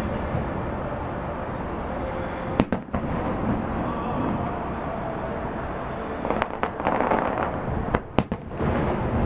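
Fireworks display: a continuous rumble of aerial shell bursts, with a few sharp cracks, the loudest about two and a half seconds in and about eight seconds in.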